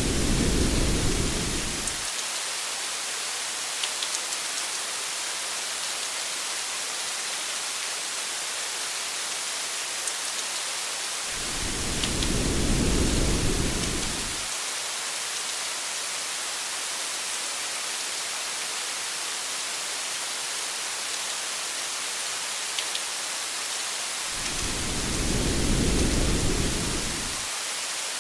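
Steady rain hiss with a few faint drop ticks. A low rumble of thunder swells and fades three times, each lasting about three seconds, about every 12 to 13 seconds.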